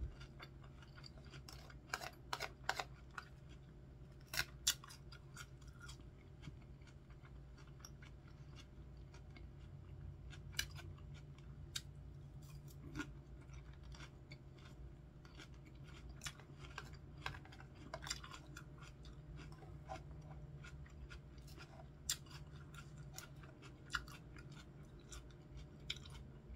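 Close-up chewing and crunching of a crisp iceberg-lettuce salad, with irregular sharp crunches and mouth clicks, over a faint steady low hum.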